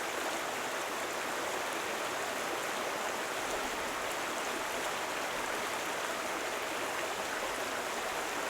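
A mountain stream running over rocks: a steady rushing of water.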